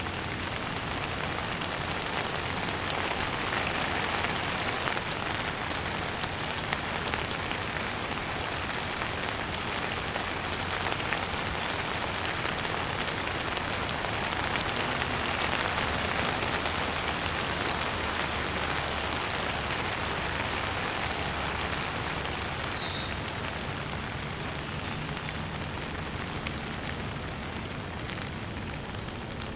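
Steady rain falling, a dense even patter of drops that eases slightly near the end. A bird chirps briefly twice, high and short, over the rain in the last few seconds.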